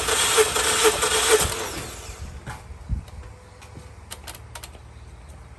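2014 Mazda 3's 2.0 L four-cylinder engine cranking on the starter with its spark plugs out for a compression test. It beats evenly about twice a second, then winds down and stops about a second and a half in, leaving a few faint clicks.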